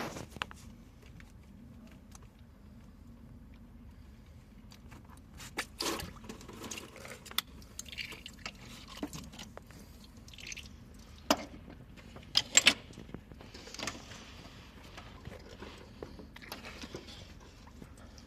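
Hand work on a car: scattered clicks and knocks of tools and parts, the sharpest a few about 11 and 12 seconds in, with short hissing or splashing noises in between.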